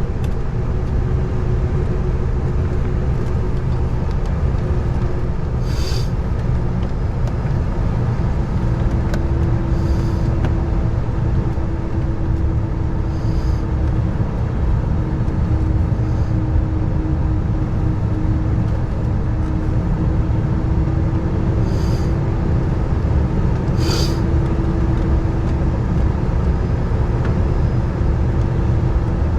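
Boeing 747-400 cabin noise from inside the upper deck as the jet prepares for takeoff: a steady, loud engine and airframe rumble with a steady hum, and a few short clicks.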